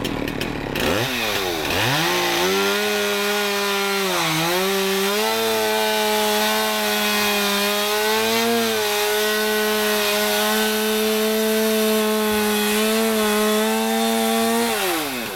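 Gas chainsaw revving from idle to full speed about a second in and held there while cutting into a roof, its pitch dipping briefly under load around four seconds in, then dropping back to idle near the end.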